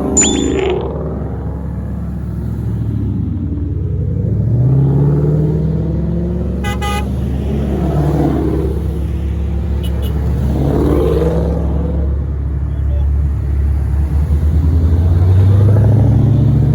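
Car engine running steadily and pulling up in pitch under acceleration twice, about four and fifteen seconds in, with a short car-horn toot about seven seconds in.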